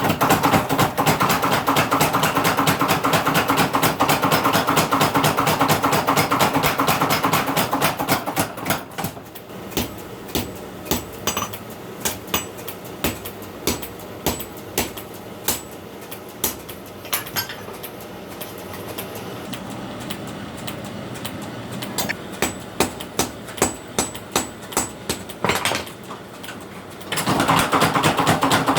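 Blacksmith's hammer forging sickle steel on an anvil. For the first eight seconds or so the blows come fast and dense. After that they fall separately, about one or two a second with a few quicker runs, and turn fast and dense again near the end.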